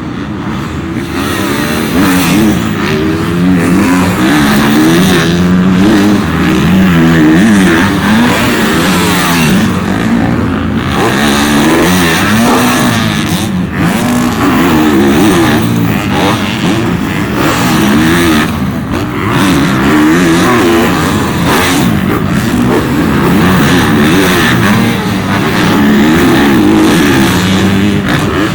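Supercross dirt bikes running on the track, their engines revving up and down over and over, several at once with overlapping pitches.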